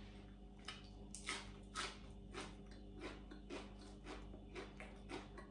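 Chewing a mouthful of fresh crown daisy (tang o) leaves dipped in chili paste: faint, crisp crunches about twice a second.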